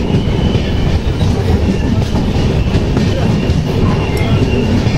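Jan Shatabdi Express passenger train running along the track: a loud, steady rumble of the moving coaches.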